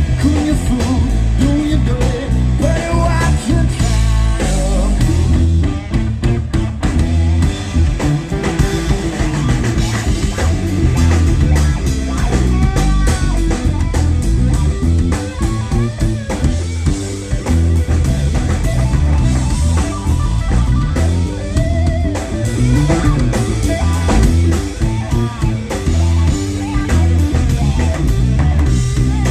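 A live blues-rock band playing loudly: electric guitar over bass guitar and a drum kit, with a steady beat and bending guitar notes.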